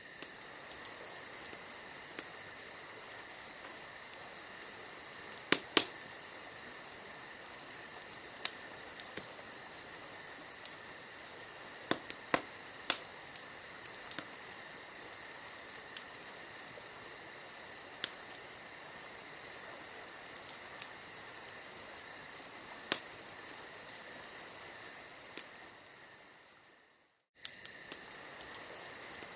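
Campfire crackling, with scattered sharp pops, several louder ones around 6, 12 and 23 seconds in, over a steady high insect trill like crickets. The whole sound fades out a few seconds before the end, goes silent briefly, then starts again abruptly.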